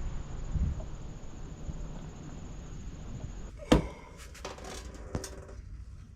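Wind rumbling on the microphone, then a sharp knock a little over halfway through, followed by a short clatter of light clicks with a brief ringing tone.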